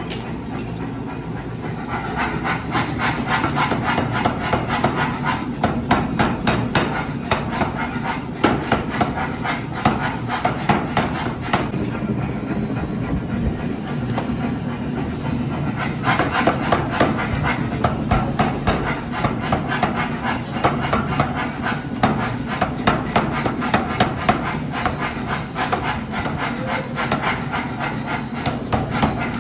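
Forge-shop metalworking: a long run of rapid, irregular strikes on steel, mixed with scraping and rasping.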